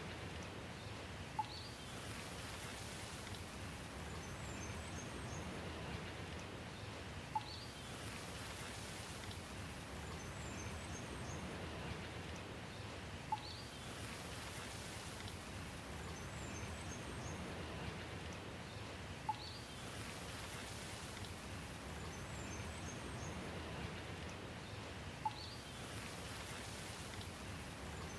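Steady rain falling, with a short plink about every six seconds and faint high bird chirps repeating at the same spacing, as in a looped recording.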